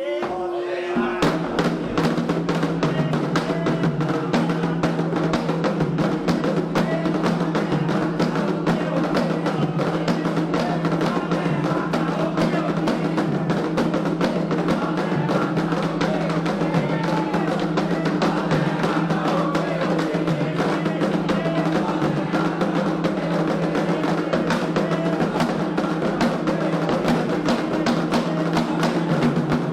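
Candomblé ritual drumming: atabaque hand drums playing a fast, dense, steady rhythm, starting about a second in.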